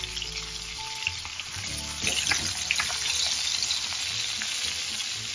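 Beef patties sizzling steadily in butter in a stainless steel skillet, with a wooden spatula scraping and knocking against the pan a few times, about two seconds in, as the patties are turned.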